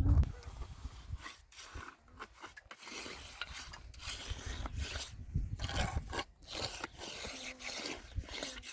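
Irregular scraping strokes, a few a second.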